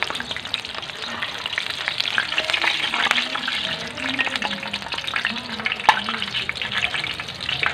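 Potato donuts frying in hot ghee: a steady crackling sizzle full of small pops, with one sharp click about six seconds in.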